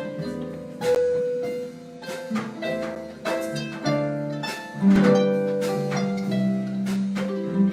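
Harp jazz played live: a run of plucked harp notes with an accompanying instrument, and a long low note coming in about five seconds in.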